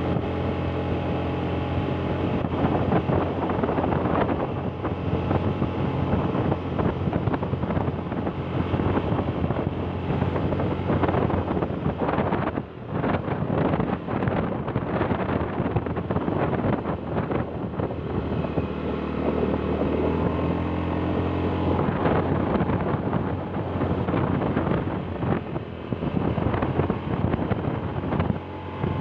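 A vehicle engine running on the move, its pitch rising and falling a few times, with wind buffeting the microphone.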